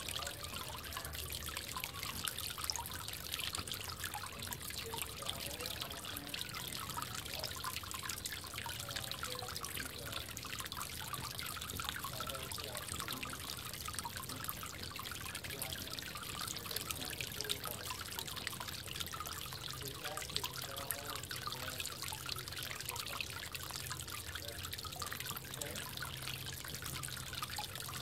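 Water trickling and dripping steadily in a bird bath, with many small drips and splashes.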